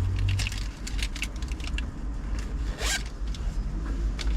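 A fabric pouch's zipper being pulled, with rustling and small clicks from handling the pouch and its contents.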